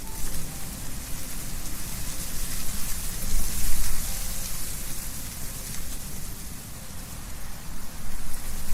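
Wind blowing through tree leaves, a steady rustling hiss that swells in gusts about three seconds in and again near the end, with a low rumble underneath.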